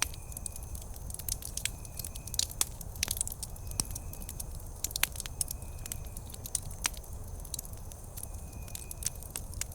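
Wood campfire crackling, with frequent sharp pops and snaps over a steady low rumble of the flames. A faint high tone comes and goes every second or two.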